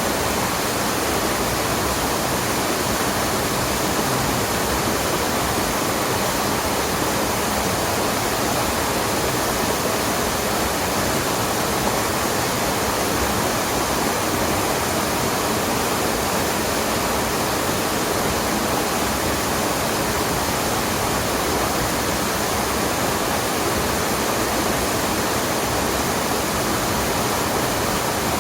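Waterfall and mountain stream water rushing in a steady, unbroken roar.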